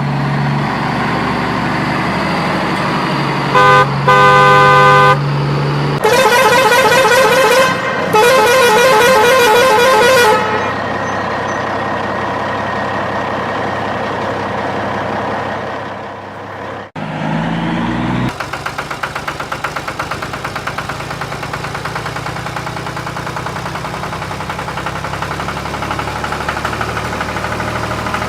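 Vehicle horn blasts, a short one at the start and another about four seconds in, followed by a warbling multi-tone horn for about four seconds. Then a steady engine hum, a brief rising sound, and from about two-thirds of the way in an engine running with a rapid, even pulse.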